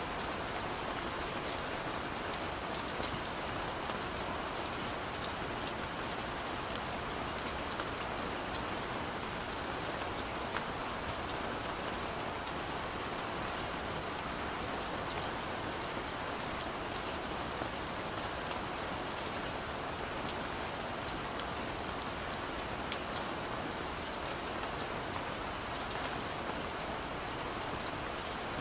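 Steady gentle rain falling, a constant hiss with scattered individual drops ticking sharply on a surface.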